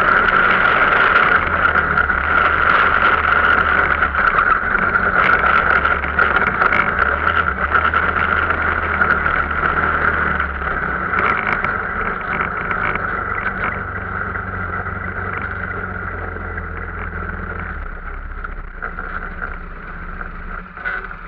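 Arctic Cat off-road vehicle's engine running steadily, then growing gradually quieter over the second half.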